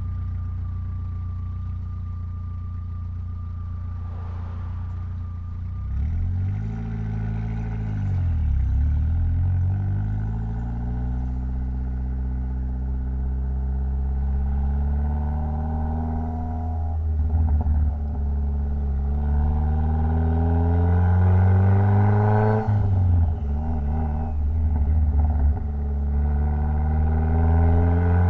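Mitsubishi Lancer Evolution X's turbocharged 2.0-litre four-cylinder engine idling for several seconds, then pulling away and accelerating through the gears. The pitch climbs steadily, drops at a gear change about two-thirds of the way in and again a few seconds later, then climbs once more.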